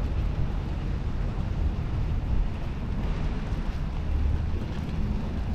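Steady low rumble of wind on the microphone over outdoor street background noise.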